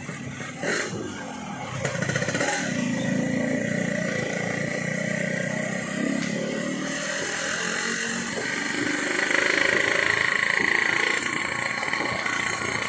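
Yamaha RX King two-stroke motorcycle with a gutted (bobokan) exhaust, running steadily while being ridden. It gets louder about two seconds in and louder again from about nine to eleven seconds.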